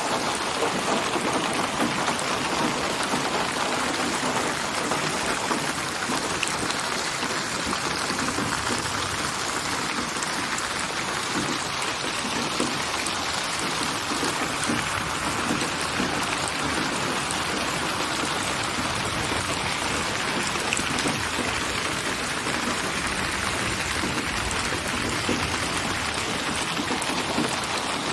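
Steady, dense rain falling and pattering on surfaces: a synthesized rain ambience built from many recorded rain samples and panned around the listener in 8D surround.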